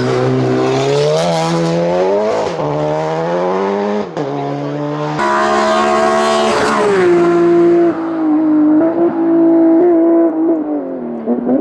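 Racing car engine at full throttle: the revs climb and drop back at several gear changes, then hold high before falling away near the end.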